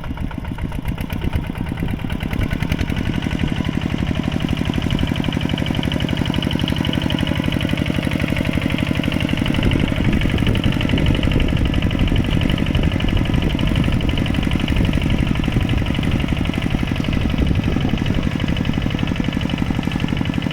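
Mini tractor's engine running steadily with a rapid, even pulse, growing a little louder about two seconds in.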